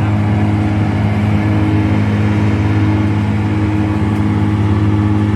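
Motor vehicle engine running steadily close by: a constant low hum that holds one pitch, over a rushing noise.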